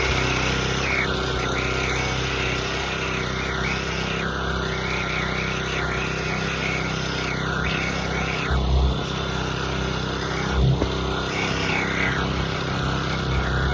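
Dirt bike engine running steadily as it is ridden, with two brief low thumps in the second half.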